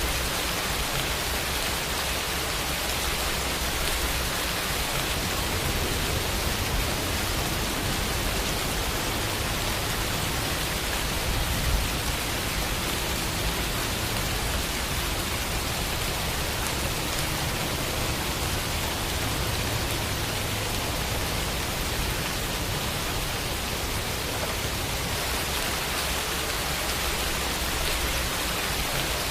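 Steady rain falling, a dense even patter with no other sounds and one slightly louder drop about twelve seconds in.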